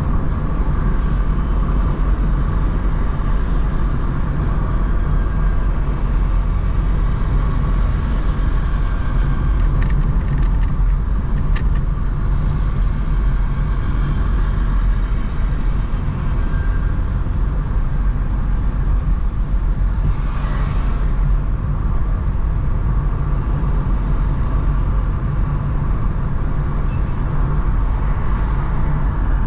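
Steady low road rumble of a car driving through traffic, with a brief hiss about twenty seconds in.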